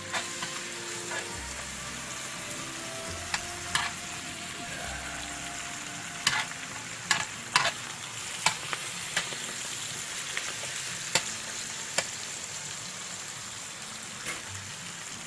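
Pork belly frying in a cast-iron sot pot, a steady sizzle with sharp clicks and pops now and then.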